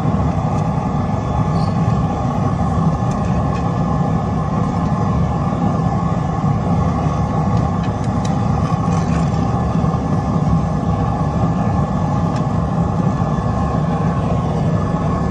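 Steady, unbroken roar of the flame heating the glass to red heat inside the stove.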